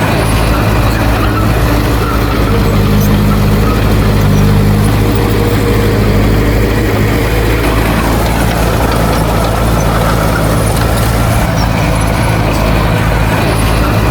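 Heavy diesel engine of earthmoving machinery running steadily, with a deep, even drone. It swells slightly for a few seconds between about two and seven seconds in.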